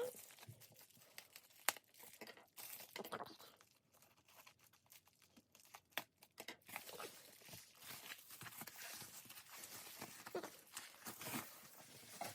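Faint rustling and crinkling of paper and plastic packaging as album items are pulled out and handled, with scattered light taps and clicks.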